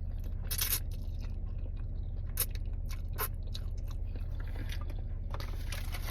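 A person chewing food close to the microphone, with a few short sharp bite or mouth clicks, over a steady low hum. A rustling hiss starts near the end.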